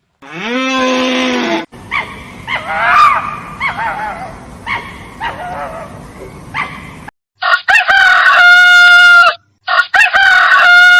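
Chickens clucking and calling for several seconds, then a rooster crowing twice, two long loud crows in the second half. It opens with a short rising animal call.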